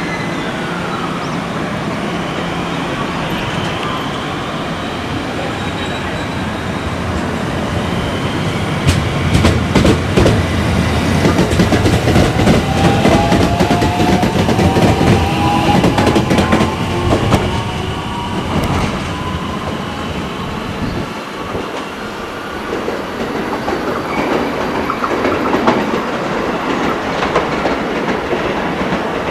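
Electric train running past the platform with wheels clattering over rail joints; a motor whine rises steadily in pitch through the middle as the train gathers speed.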